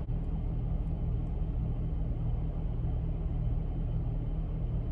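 Steady low rumble inside a parked car's cabin.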